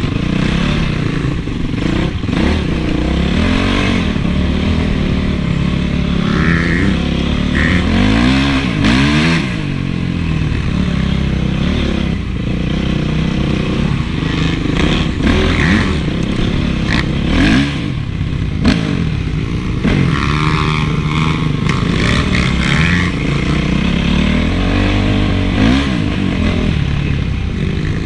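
Honda CRF450's single-cylinder four-stroke engine being ridden, its pitch rising and falling again and again as the throttle opens and closes, with brief clattering knocks along the way.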